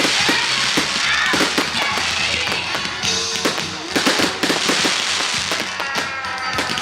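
Fireworks display going off: a dense run of irregular bangs and crackles, with music playing underneath.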